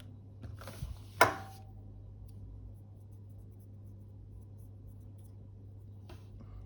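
Small handling noises from tools on the camera: a short scraping rub and a sharp tap about a second in, another brief rub near the end, over a steady low hum.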